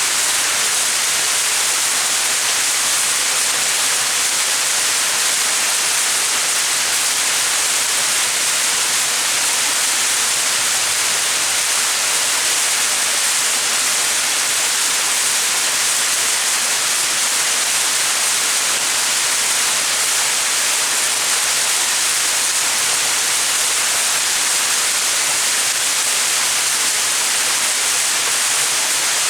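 Small mountain waterfall: water falling and splashing in a steady, even rush with a bright hiss.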